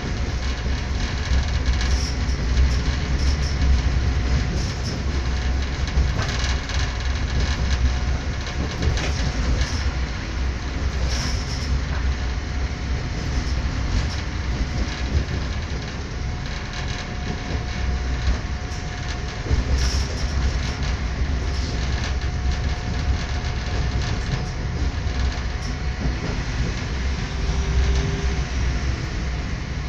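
Passenger train running along the track, heard from inside the carriage: a steady low rumble of wheels on rails with a thin steady whine and a few scattered clicks.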